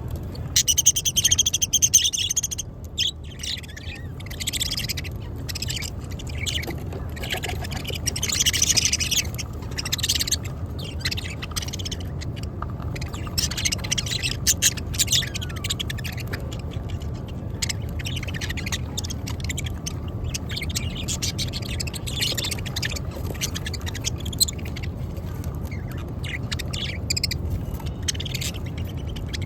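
A flock of pet budgerigars chirping and chattering, with short high calls coming in quick clusters, loudest in the first few seconds, over a steady low hum.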